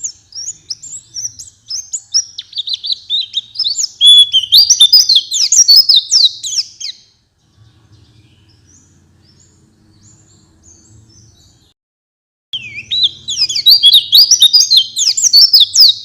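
White-eye (pleci) singing a fast, chattering song of quick high notes that jump up and down. It sings loudly for about seven seconds, pauses for several seconds with only a faint low hum, then starts again near the end. It is a lure song played to pet white-eyes to get them singing.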